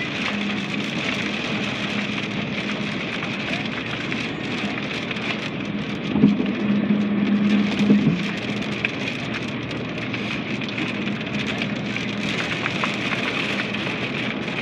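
Heavy rain beating on a car from inside the cabin: a dense hiss of drops over a low steady hum. It swells louder for about two seconds around the middle.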